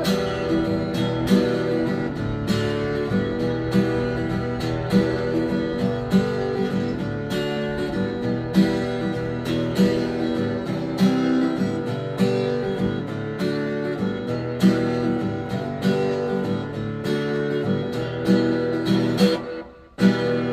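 Acoustic guitar strumming chords at a steady, even rhythm with no singing: the instrumental ending of a song. It breaks off sharply just before the end.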